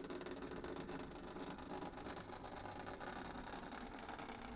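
Model Class 73 locomotive, a modified Lima model, running at low speed: a faint, steady mechanical running sound.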